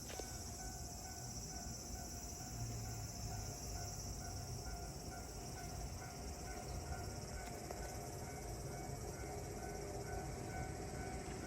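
Railway level-crossing warning bell ringing in a steady, even repeat, over a continuous high insect drone.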